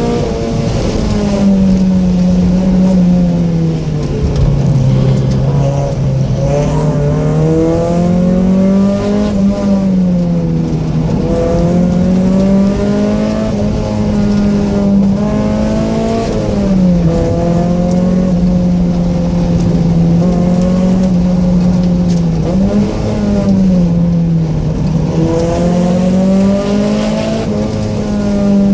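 Mazda Miata's 1.6-litre four-cylinder engine with aftermarket headers and exhaust, running hard at high revs under load, its pitch falling and climbing again several times.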